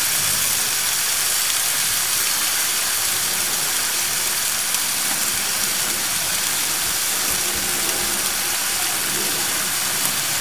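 Mussels frying in butter in an aluminium wok, a steady sizzling hiss.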